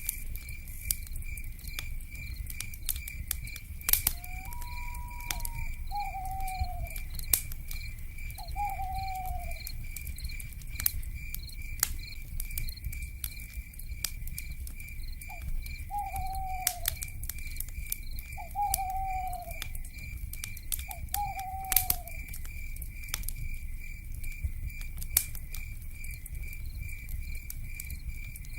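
Wood fire crackling, with frequent sharp pops over a low rumble. Under it runs a steady pulsing insect trill, and a night bird, the owl of this ambience mix, gives about six short falling calls in the first two-thirds.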